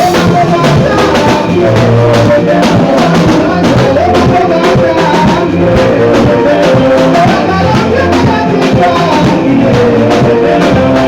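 Loud live congregational worship music: voices singing over a drum kit with a steady beat, and guitar or bass.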